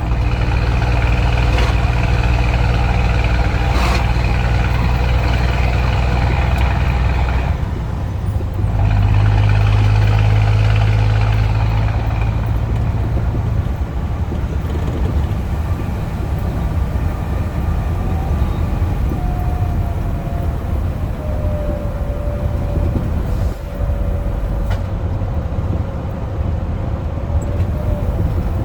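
Scania truck engine running hard through a straight-piped exhaust with no muffler, a deep steady note. About eight seconds in it dips briefly, then comes back louder for a few seconds before settling into steady running.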